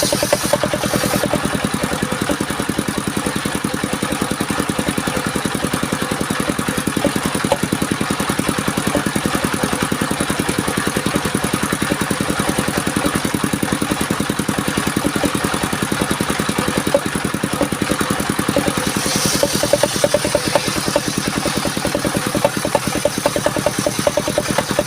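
Engine of a mobile circular sawmill running steadily, its firing pulses heard as a fast, even beat.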